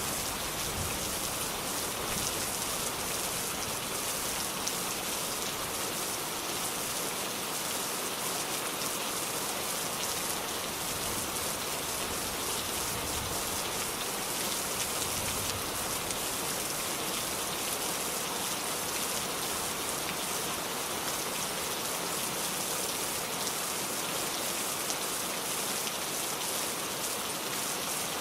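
Steady rain falling, a dense even hiss of drops hitting a surface.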